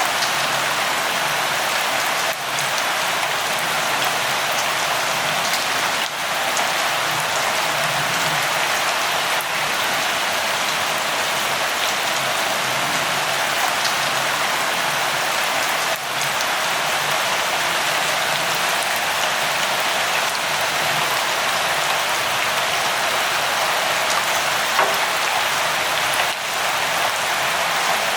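Steady light rainfall, an even hiss of rain with a few separate drops ticking now and then.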